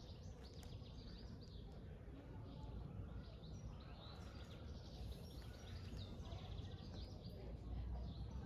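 Small birds chirping and calling, many short calls overlapping, with a brief rapid trill about six seconds in, over a low steady rumble.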